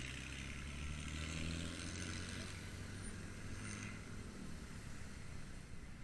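Vehicle engine running in traffic, its pitch rising slightly for a couple of seconds and then fading after about four seconds, over steady road and wind noise.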